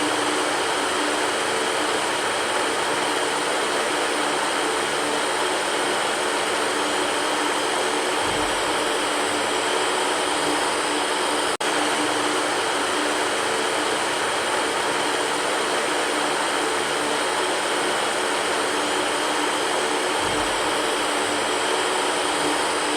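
Electric fan running steadily: an even whoosh of moving air with a faint low hum. There is a split-second dropout in the sound about halfway through.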